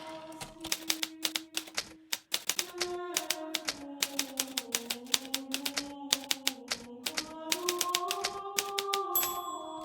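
Hermes Baby portable typewriter being typed on: a fast, uneven run of sharp keystroke clacks with a few short pauses, and a brief high ring near the end from the margin bell. Soft background music of slowly shifting held tones plays underneath.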